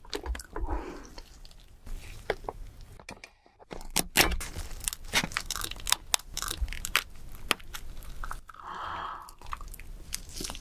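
King crab shell cracking and snapping as it is broken open, mixed with chewing. There is a dense run of sharp cracks with a brief pause about three seconds in.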